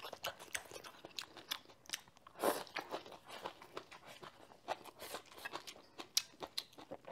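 Close-miked mouth sounds of chewing a mouthful of rice with pickled mustard greens and tender pork slices in sour broth: many small wet clicks and soft crunches, with one louder sound about two and a half seconds in.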